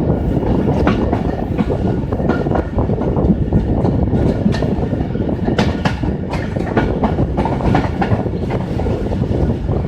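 Pakistan Railways Fareed Express passenger train running past close by: a loud, steady rumble of coaches and wheels on the rails, with many sharp, irregular clicks and clacks from the wheels over the track.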